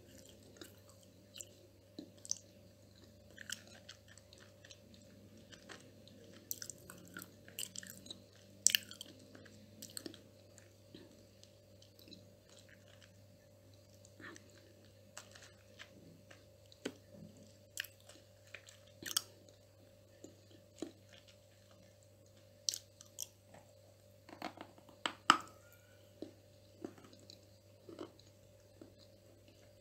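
Close-up chewing and biting of crunchy calabash chalk (edible clay): irregular crisp crunches, the loudest at about 9 and 25 seconds in, over a faint steady hum.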